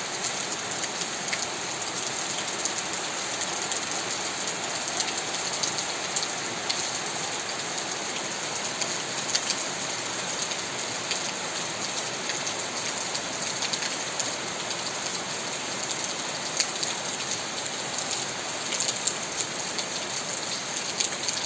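Steady heavy rain falling, with many individual drops tapping and splattering on a surface.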